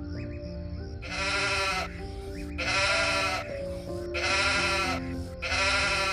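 Four bleats from a farm animal, evenly spaced about a second and a half apart, over background music.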